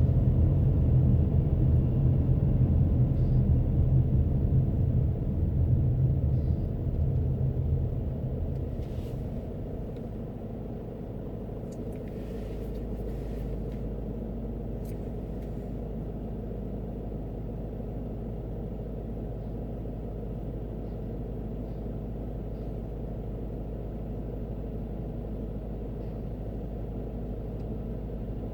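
Car driving, heard from inside the cabin: a loud low road and engine rumble that dies down about nine to ten seconds in, leaving a steady low hum for the rest.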